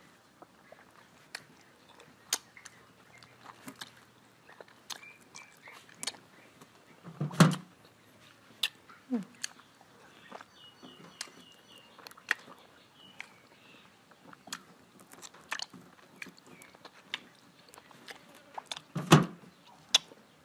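Close-up mouth sounds of biting and chewing slices of green mango: many sharp, wet clicks and crunches. Two louder, deeper bumps come about seven seconds in and near the end.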